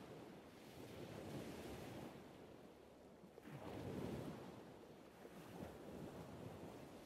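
Soft rushing noise, like wind or surf, that swells a little past halfway and then eases off.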